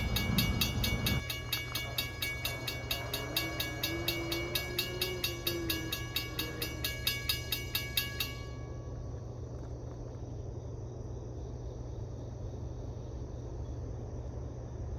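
Railroad grade-crossing bell ringing about twice a second, then stopping abruptly about eight seconds in, over the steady low rumble of a train.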